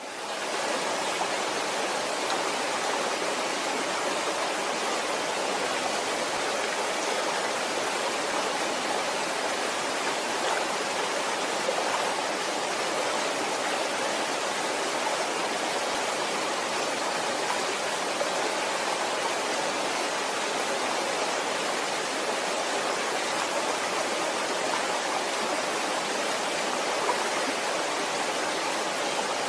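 Waterfall: a steady, continuous rush of falling water, fading in at the very start and then holding level.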